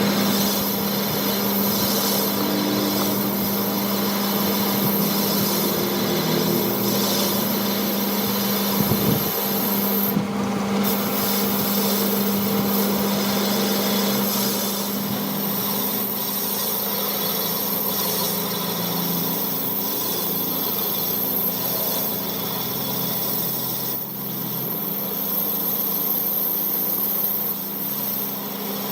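Power tool running steadily with a continuous rubbing, filing-like sound of tool work on metal, over a constant motor hum.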